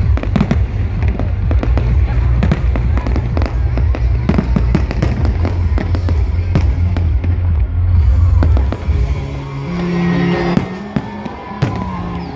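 Fireworks display: a rapid, dense run of bangs and crackles from shells bursting, over a heavy low rumble, with music playing beneath. About nine seconds in the bangs thin out and the sustained music notes come forward.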